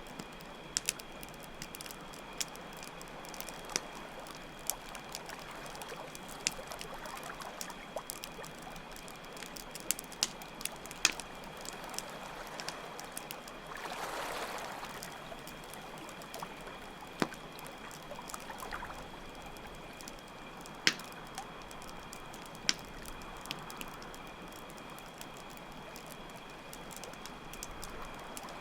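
Campfire crackling with scattered sharp pops over steadily flowing water, while crickets chirp in a continuous high trill. The water swells briefly about halfway through.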